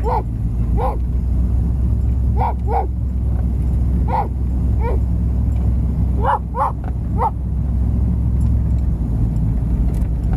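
A dog yipping in short, high calls, about ten of them spread over the first seven seconds, then stopping. Under them runs the steady low rumble of a running vehicle.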